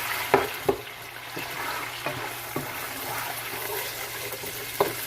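Tomatoes and ginger-garlic paste sizzling in hot oil in a cooking pot while being stirred, with a spoon knocking and scraping against the pot a few times, the loudest knocks shortly after the start and near the end.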